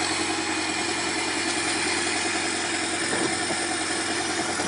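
A heavy machine's engine running steadily, with no change in speed.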